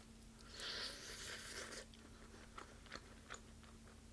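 Crunchy bite into deep-fried chicken: about a second of crisp crackling from the fried coating, followed by a few short crunches as it is chewed.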